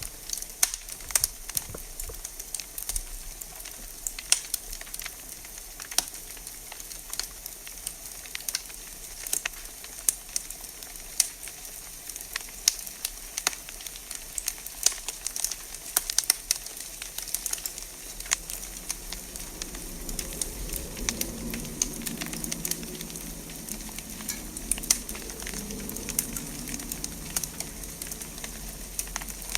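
Wood fire in a fireplace crackling, with frequent sharp pops over a steady hiss. A fainter low sound comes in a little past the middle and fades near the end.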